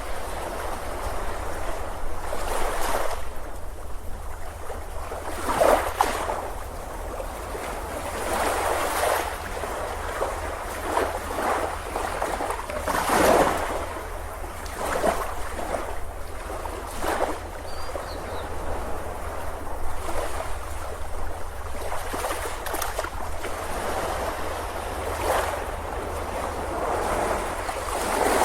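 Ocean waves breaking and washing on a beach, a steady wash of surf with surges every few seconds.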